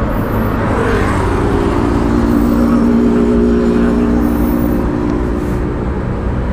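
Motorcycle engine idling steadily amid street traffic noise, with a steady engine hum rising out of the rumble about a second in and fading out around five seconds in.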